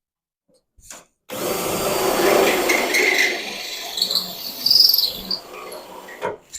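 A drill boring into car-body sheet metal, starting about a second in and stopping near the end, with a high squeal from the bit in the metal partway through.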